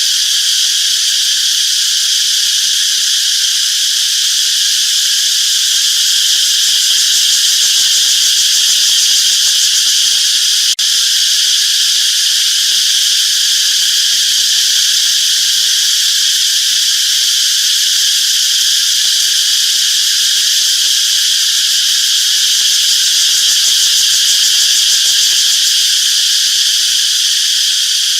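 A loud, steady, high-pitched chorus of insects trilling. It breaks for an instant with a click about eleven seconds in.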